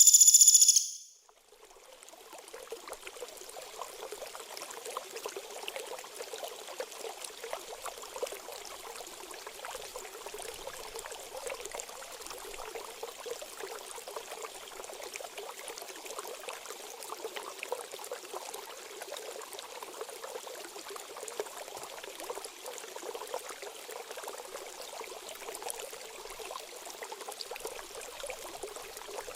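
A small songbird's shrill, high-pitched song cuts off about a second in. Steady trickling, flowing water then fades in and runs on: the water-therapy interlude of a bird-training recording.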